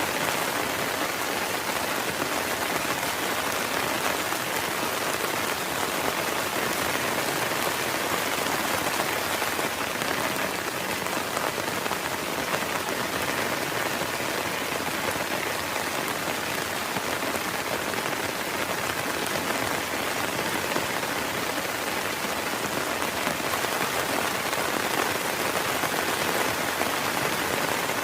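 Heavy rain falling steadily on a tent, a dense, even patter with no breaks.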